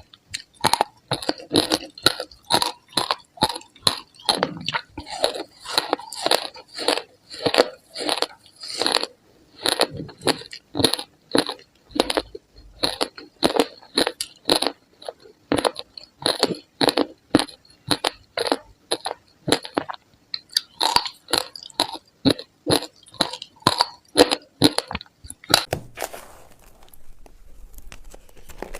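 Close-miked crunching of ice being chewed, a steady run of sharp crunches at about two a second that stops a few seconds before the end.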